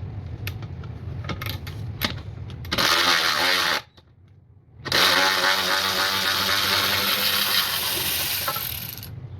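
Cordless electric ratchet's motor and gears running as it loosens a fastener, in two runs: a short one about three seconds in, then, after a brief pause, a longer one of about four seconds. A few light clicks come before it.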